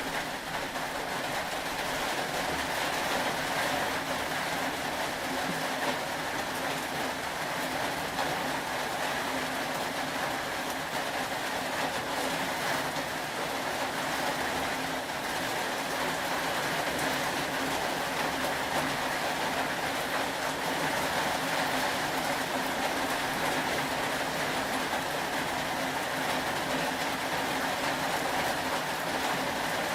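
Steady rain falling, an even continuous hiss with no distinct drops or breaks.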